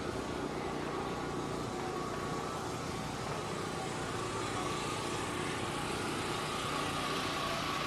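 Motorcycle engines running steadily, a constant drone with a wavering whine that climbs a little in the second half.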